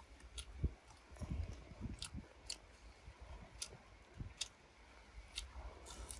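Close-up mouth sounds of someone eating grilled eel: chewing with scattered sharp wet clicks and smacks and a few soft low thumps.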